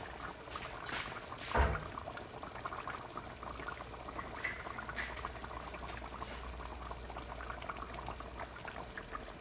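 Coconut curry sauce simmering in a pot, a steady bubbling with small pops, and a louder knock about a second and a half in.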